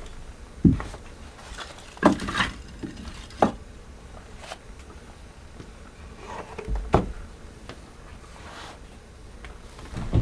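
Scattered knocks and clatter, as of objects being handled in a small room, with a few louder thumps about a second, two seconds, three and a half seconds and seven seconds in.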